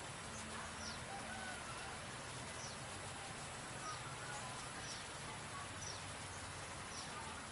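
Outdoor ambience with birds chirping: short, high, falling chirps repeated about once a second, with softer warbling calls beneath.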